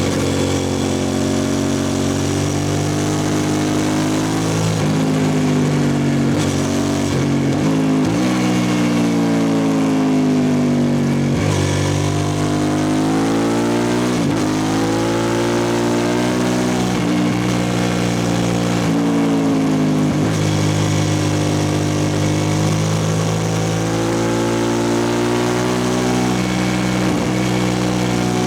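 2003 Suzuki SV650S V-twin through a Lextek exhaust with the dB killer removed, running loud with its note rising and falling as the revs change, broken by several brief sharp dips in pitch.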